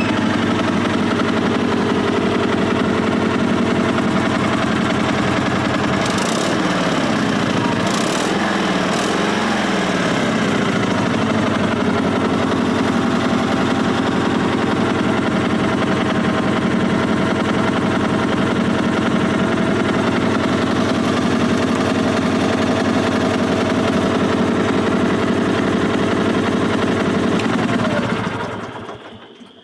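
1974 Sears SS/16 garden tractor's twin-cylinder engine running steadily, then shut off near the end and dying away over about a second.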